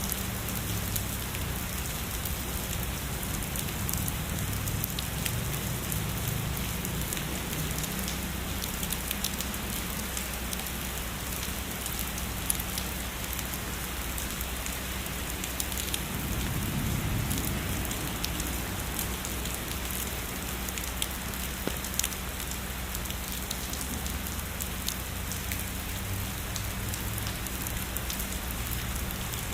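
Steady heavy rainfall, an even hiss with many close drops ticking sharply on a surface. A low rumble swells and fades about halfway through.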